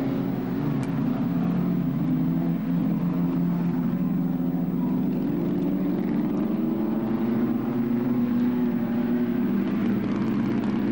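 Vintage pre-war racing car engines running steadily, a low hum that holds its pitch with small wavers and no clear drive-by.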